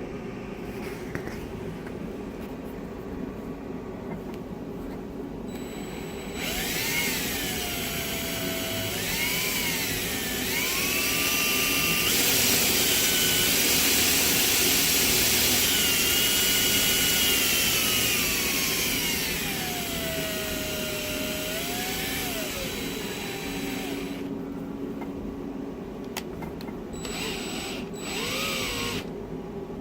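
A tachogenerator spun by a power tool's motor. The whine climbs in pitch in several steps, holds high, then glides down over several seconds and cuts off, followed by two brief spin-ups near the end, all over a steady low hum.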